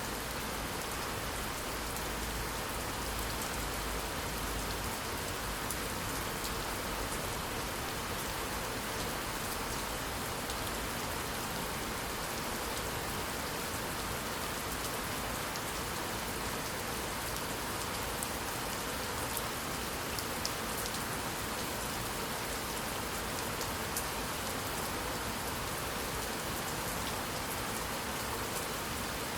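Steady rainfall, an even rushing hiss with sharp individual drops ticking on a surface.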